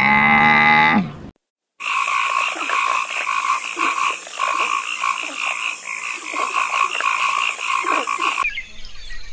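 A camel's drawn-out bellowing call that drops in pitch and stops after about a second. After a short gap, a dense chorus of frogs croaking in fast, pulsing trills.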